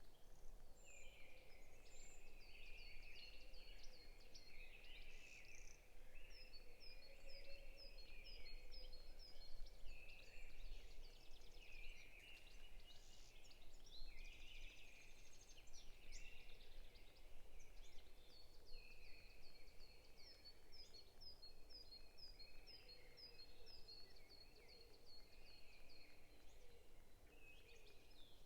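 Several forest birds singing at once: one gives runs of short, high chirps at about four a second, repeated in spells, over other birds' warbling chatter.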